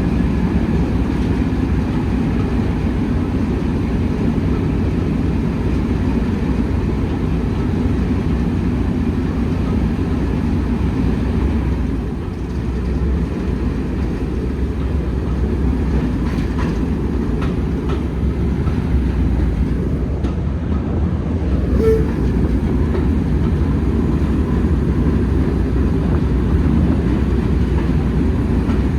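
Train running along the line: a steady low rumble with a few faint clicks from the wheels on the track.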